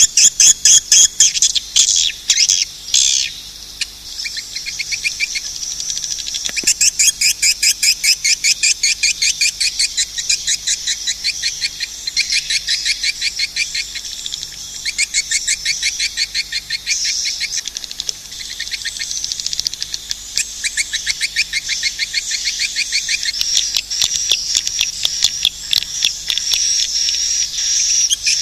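Edible-nest swiftlets calling: long runs of rapid, high-pitched chirping trills, many chirps a second, broken by a few short lulls.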